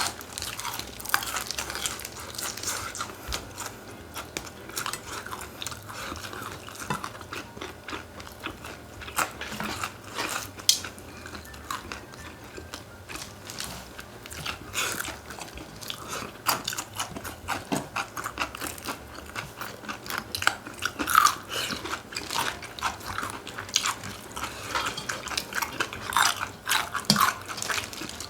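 Chewing and crunching of chicken, eaten up close: a steady run of irregular crisp bites and crackles.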